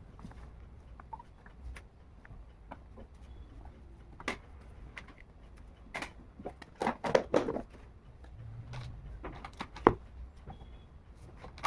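Scattered knocks, taps and rustles of vegetables and containers being handled in a kitchen, with a flurry of louder knocks around seven seconds in and one sharp knock near ten seconds.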